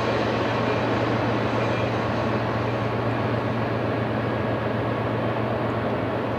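Double-stack intermodal freight train rolling on steel rails as its last cars move away: a steady rumble with a constant low hum, easing off slightly.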